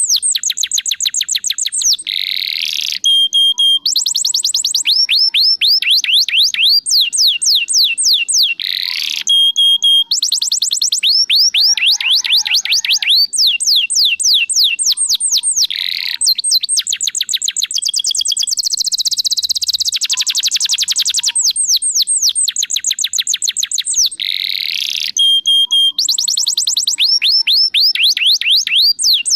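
Domestic canary singing a long, loud, unbroken song of rapid trills. Each trill is a run of quick falling notes lasting a few seconds, and it changes to a different trill every few seconds, with short held or buzzy notes in between.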